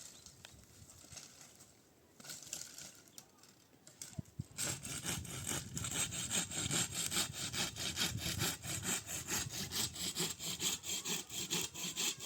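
Hand saw cutting through wood in quick, even strokes, about four a second, starting about four and a half seconds in, after a brief scrape.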